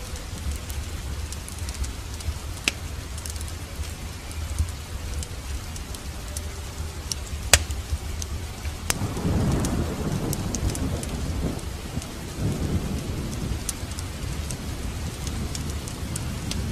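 Wood fire crackling with scattered sharp pops over steady rain, and a roll of thunder rumbling up about nine seconds in and fading over a few seconds.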